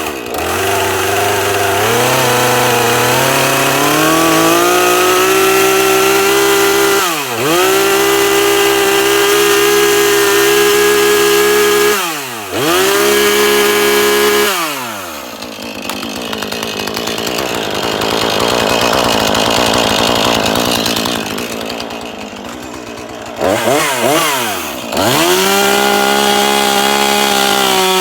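Husqvarna 440 40cc two-stroke chainsaw revved up to full throttle, with its pitch dropping briefly twice as the throttle is let off. For about eight seconds in the middle the chain bites into wood and the engine pitch is pulled down under load, then it revs free again.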